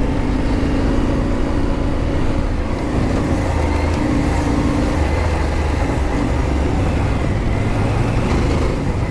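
Motorcycle engine running steadily under way, with wind and road noise; the engine note changes about five seconds in.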